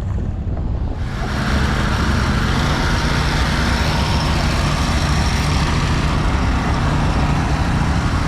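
A motor vehicle's engine running close by: a steady low hum that gets louder from about a second in and then holds steady.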